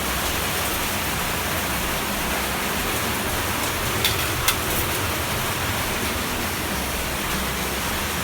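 Steady hiss of rain falling, with two short clicks about four seconds in.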